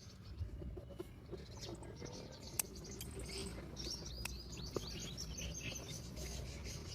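Many short, high chirps from small birds, thickest in the middle, with a couple of sharp clicks over a low steady background hum.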